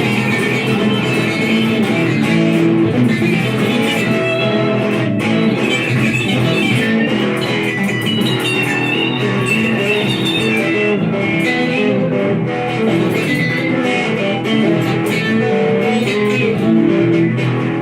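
Electric guitars playing an improvised blues-rock jam, with busy note runs over held notes at a steady level.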